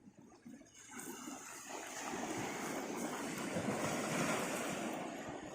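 Sea surf: a wave washing in on the shore, a rushing hiss that builds over a couple of seconds and then fades.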